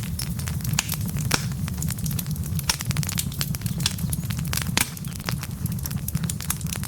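Wood fire burning logs, crackling with frequent sharp pops over a steady low rumble, the strongest pops about a second and a half in and near the five-second mark.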